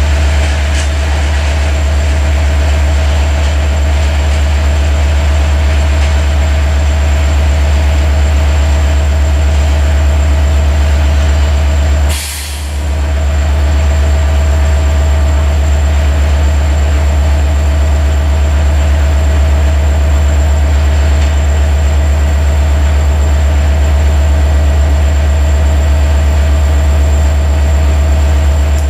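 Freight train of tank wagons rolling slowly along the track, heard as a loud, steady low rumble. The sound dips briefly about twelve seconds in.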